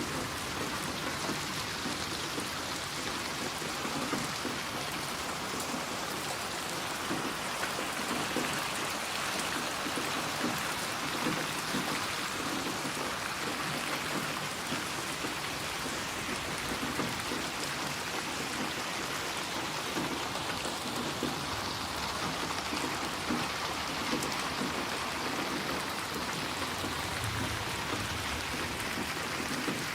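Steady rain falling, with many small drop impacts over a constant hiss.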